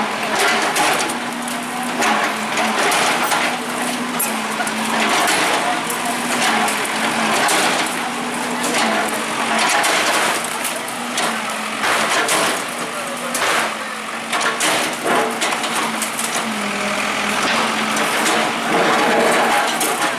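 Bulldozer demolishing a building: its engine hums steadily under continuous crunching and cracking of breaking walls, wood and debris.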